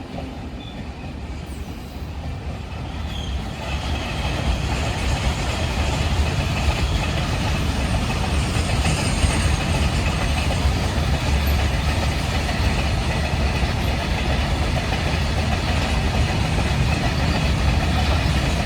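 A train running past close by: a steady rumble of wheels and wagons that builds over the first few seconds and then holds.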